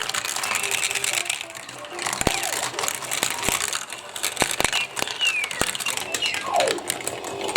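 Marbles rolling and clacking down a plastic block marble run with water running, with sharp clicks as they hit the pieces. Twice near the end, a marble spinning out gives a short whir that falls in pitch.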